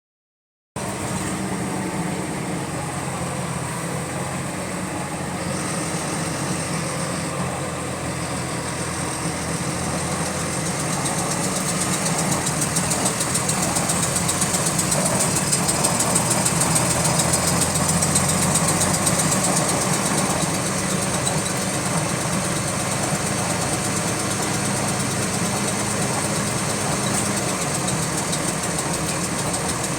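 Bus engine running, with a rapid repetitive clicking that keeps time with the engine speed and grows louder and busier as the engine picks up in the middle. The cause of the clicking is unknown.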